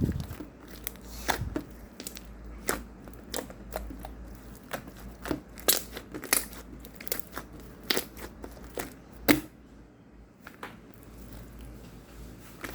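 Irregular crinkling and crackling clicks from close handling, some sharper than others, with a louder crack about nine seconds in.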